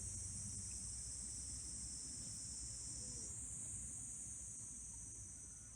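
A steady, high-pitched insect chorus: a continuous shrill buzzing that holds without break.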